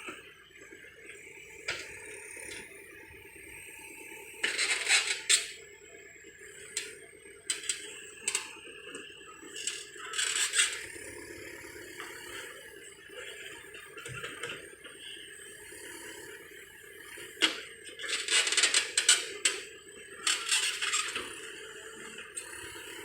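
Heavy earthmoving machinery at work: a steady engine drone under repeated bursts of metallic scraping and rattling, the loudest clusters about five seconds in and again from about seventeen to twenty-one seconds in.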